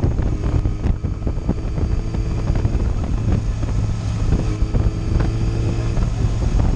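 Sport motorcycle's engine running at a steady cruise, heard from a camera on the bike, with wind buffeting the microphone.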